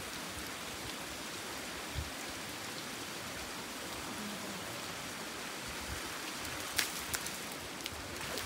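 Steady rain falling on a wet road and a parked vehicle, an even hiss with a few sharper taps about seven seconds in.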